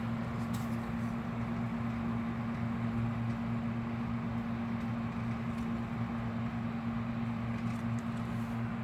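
1977 Mitsubishi New Compact E-20SH3 exhaust fan running steadily: an even motor hum under a steady rush of air from the blades.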